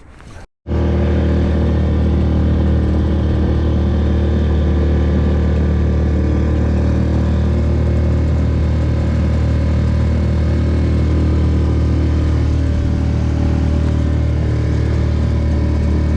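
Boat's outboard motor running at a steady speed, a loud, even drone that starts abruptly about half a second in.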